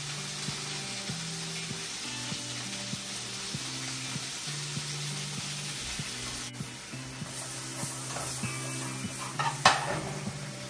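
Food sizzling as it fries in a pan, an even hiss throughout, with a few sharp knocks of a utensil against the pan about nine and a half seconds in.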